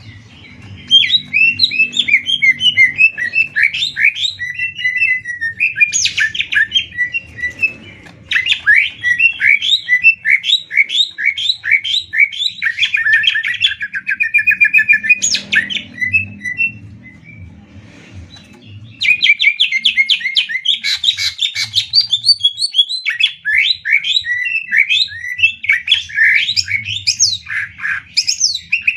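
Cucak ijo (green leafbird) singing long, fast phrases of rapid-fire high chirps and trills, the showy fast-paced song that bird keepers call ngetrek. The phrases break off briefly twice, the longer pause about two-thirds of the way through.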